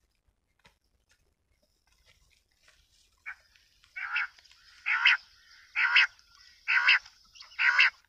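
A bird calling: one faint call, then five loud short calls about a second apart.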